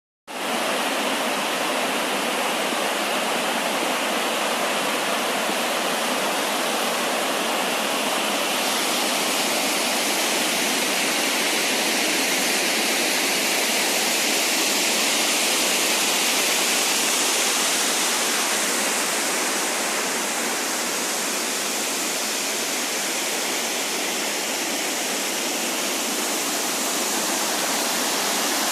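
Yudaki waterfall, a long cascade of water sliding down a rock face, giving a steady loud rush with little change.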